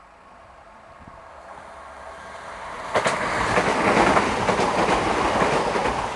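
CrossCountry Class 170 Turbostar diesel multiple unit approaching and passing at speed. It grows louder from the start and jumps sharply as the front draws level about three seconds in. Then comes the loud rush of the carriages going by with repeated wheel clacks, easing off near the end.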